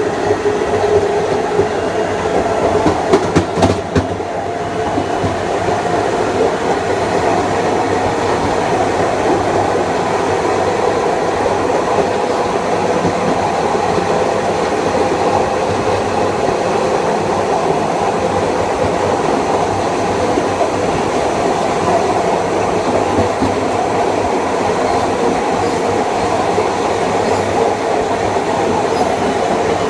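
Long Island Rail Road Kawasaki M9 electric multiple unit running steadily along the line: wheels on rail with the hum of its Mitsubishi AC traction motors and IGBT-VVVF inverter, and a few knocks about three to four seconds in.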